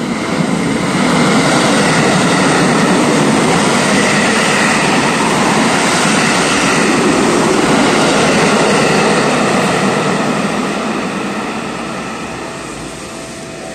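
Electric commuter train running past the station platform. A loud rush of wheel and car noise swells about a second in, holds steady, then fades away over the last few seconds.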